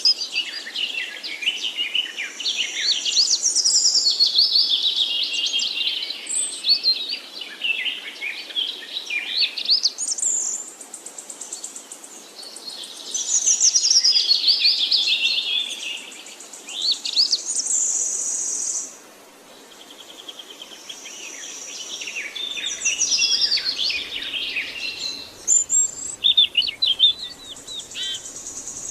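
Songbird singing in long, rapid warbling phrases of quick notes that sweep up and down, in several bouts broken by short pauses.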